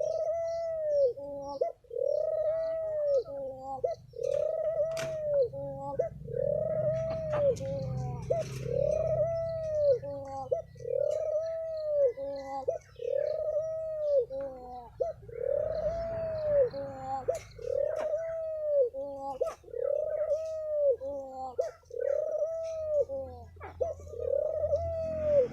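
Spotted dove cooing in a long run of arched, rise-and-fall notes, about one a second. This is the 'thổ pháp' style of coo played as a lure call to draw in other doves. Fainter higher chirps and clicks sound over it.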